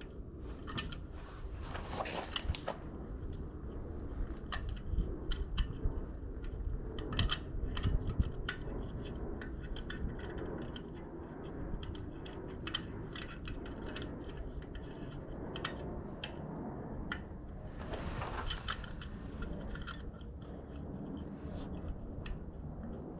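Irregular small clicks, taps and short scrapes of hands working an LED bulb and its locking ring into a tractor's headlight housing as the bulb is twisted to seat it, over a low rumble.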